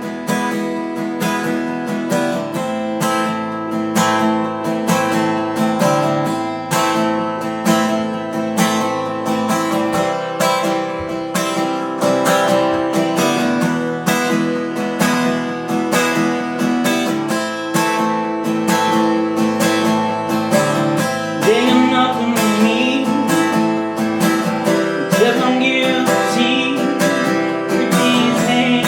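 Acoustic guitar strummed in a steady rhythm, playing a song in A minor.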